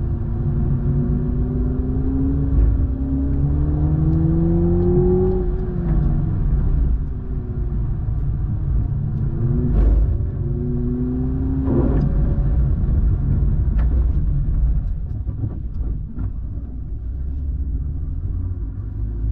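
Toyota Supra 2.0's turbocharged four-cylinder engine pulling up through the revs twice, the pitch climbing steadily and then dropping away as the throttle comes off, over a heavy constant low rumble of road noise.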